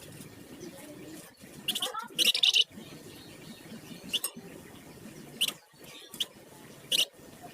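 Flamboyan songbird singing: a loud quick run of high notes about two seconds in, followed by single short sharp chirps at intervals of a second or so, over a steady low background noise.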